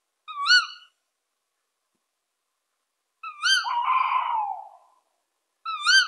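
Bird call repeated three times, each a short wavering whistle about half a second long. The middle call runs on into a lower, rougher note that falls away over about a second.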